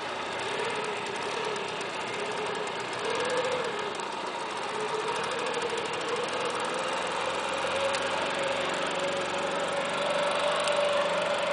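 Boat engine running continuously, its pitch wavering at first and then climbing slowly through the second half.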